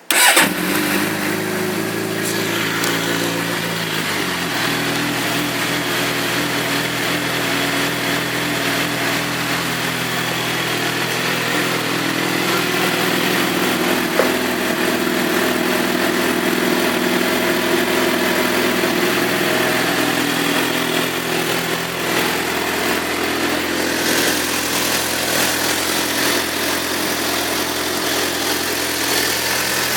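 2006 Suzuki GSX-R750's inline-four engine starting and catching at once. It idles a little high for a few seconds, then settles to a steady, lower idle.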